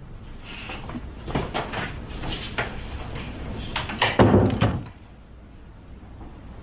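Door noises: several light clicks and knocks, then a louder thud about four seconds in.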